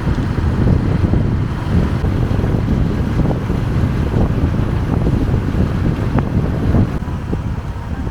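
Wind buffeting the microphone of a moving motorbike, a loud low rumble that eases a little near the end.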